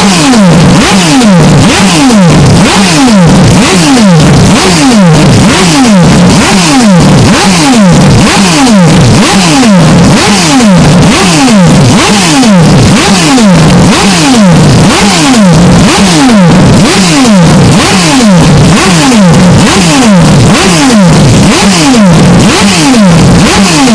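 Historic Formula 1 race car engine sound, blown out into heavy distortion and clipping, with its pitch falling again and again in quick repeated sweeps, about two a second.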